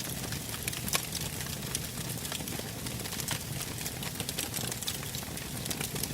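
Burning wood logs crackling: irregular sharp pops and snaps over a steady low rumble of flames, with one louder pop about a second in.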